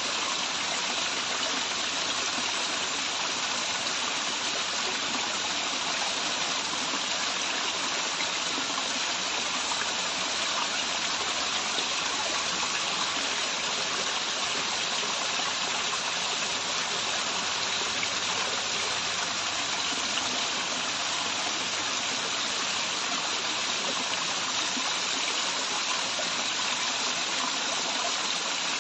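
Waterfall water running and splashing, a steady even rush with no change.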